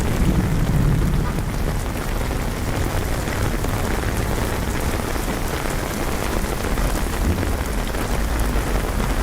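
Steady rain falling on city streets and surfaces, with a low rumble in the first second or so.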